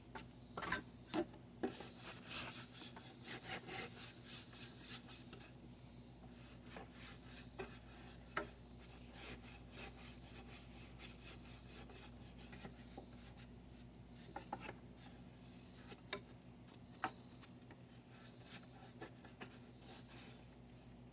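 A stiff brush scrubbing caked grass off the underside of a lawn mower deck in repeated rasping strokes, busiest in the first few seconds, with scattered knocks of the brush against the deck.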